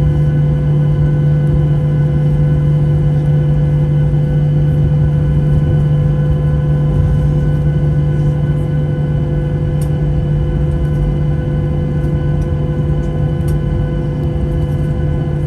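Steady drone of a Boeing 737-800's CFM56 engines and airflow heard inside the cabin: a deep rumble with a constant hum. It eases off slightly near the end.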